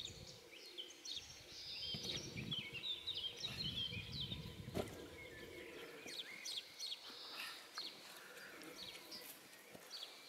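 Small birds chirping and trilling all through, with a low rumble in the first half that dies away about halfway, and one sharp click just before it does.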